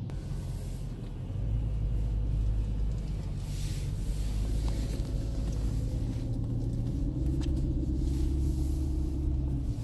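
BMW M3 E93's 4.0-litre V8 running, a steady low rumble that gets louder about a second in.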